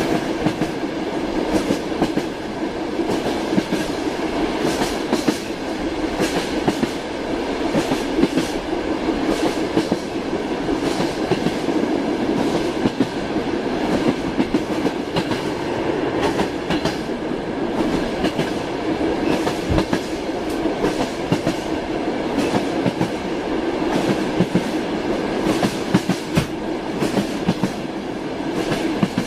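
A train running along the track: a steady rumble with frequent sharp clicks as the wheels clatter over the rail joints.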